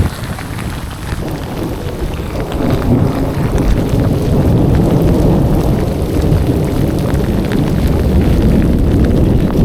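Heavy downpour, with wind buffeting the microphone as a steady low rumble that grows louder a few seconds in.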